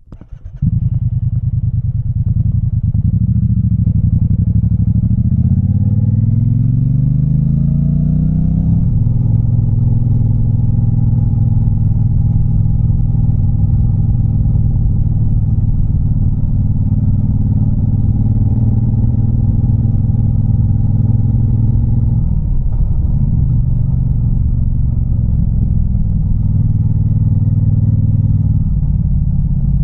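Triumph Bobber's parallel-twin engine through a raw, loud exhaust, coming on sharply about half a second in. The pitch rises steadily over the first eight seconds or so as it accelerates, then holds a steady drone, with a brief dip about 22 seconds in and another near the end.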